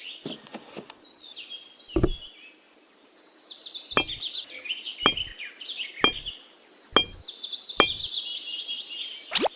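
Birds chirping and calling steadily, with a sharp knock about once a second from a couple of seconds in.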